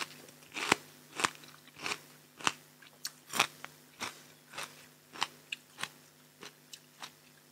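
Close-miked chewing of a mouthful of raw shrimp salad with fresh vegetables: a run of crisp crunches about every half second, growing fainter toward the end.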